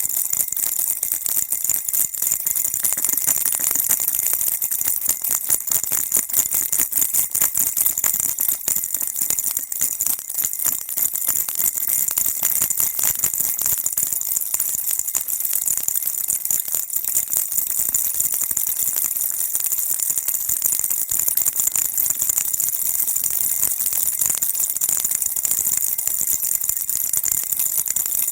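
Baby rattle shaken continuously, a dense, fast, even rattling with small bell-like jingles, kept steady as white noise for calming a baby.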